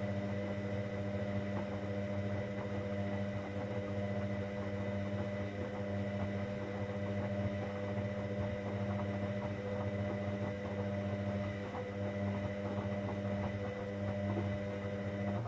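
Hoover Dynamic Next washing machine's drain pump humming steadily, then switching off abruptly at the end.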